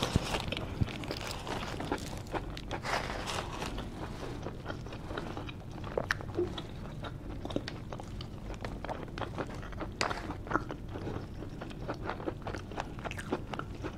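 A person chewing food close to the microphone: wet chewing with many small, sharp mouth clicks scattered throughout, while eating a cheesesteak sandwich and garlic fries.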